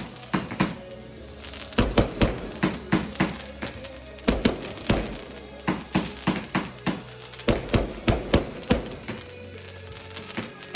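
Fireworks going off in a display barrage: rapid sharp bangs in quick runs of several shots, separated by brief lulls. Music plays underneath.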